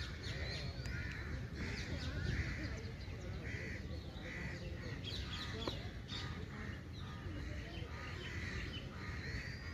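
Birds calling: a harsh call repeated about once a second, with quick high chirps between, over a steady low background noise.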